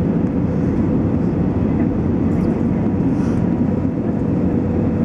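Steady engine and airflow noise heard inside the cabin of an Airbus A320-214 during its descent to land, with a faint steady tone held throughout.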